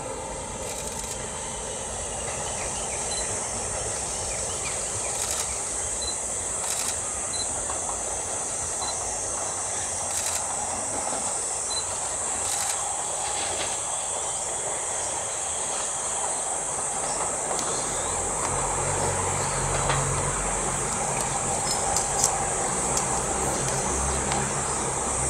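An electric commuter train fading away in the first couple of seconds, then steady trackside ambience with a continuous high-pitched hiss and a few faint chirps. A low rumble comes in past the middle.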